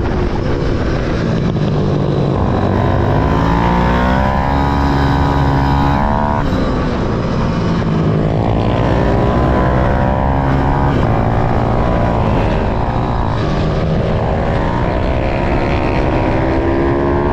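Pit bike's small single-cylinder engine revving hard on a track, its pitch climbing as it accelerates and dropping off sharply about six and a half seconds in, then rising and falling again through the corners.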